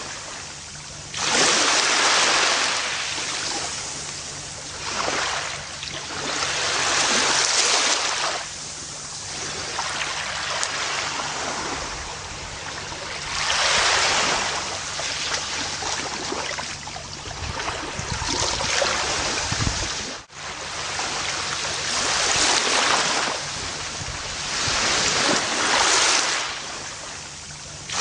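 Gentle ocean waves breaking and washing up a beach, the surf hiss swelling and falling away every few seconds. There is a momentary drop in the sound about twenty seconds in.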